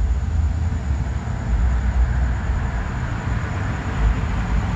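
Steady low rumble with a hiss above it: the running noise of a vehicle.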